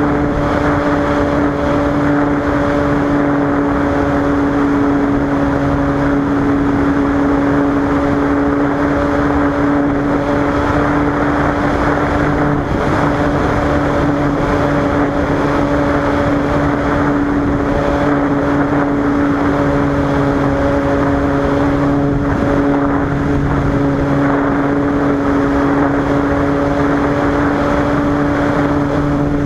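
Cessna 185's six-cylinder piston engine and propeller running at a constant setting: a loud, even drone with a strong steady hum that does not change pitch.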